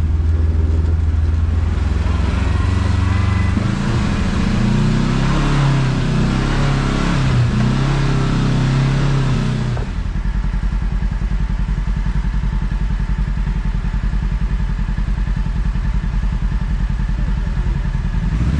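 Kawasaki KRX side-by-side's 999 cc parallel-twin engine revving up and down under throttle for about ten seconds. It then settles to a steady, evenly pulsing idle.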